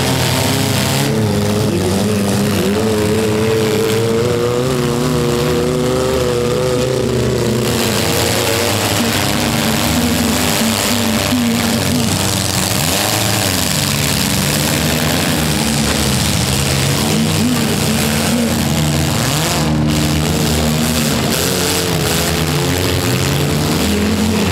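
Several four-cylinder demolition derby cars' engines running and revving at once, their pitches rising and falling over one another as the cars push and ram in a pile-up.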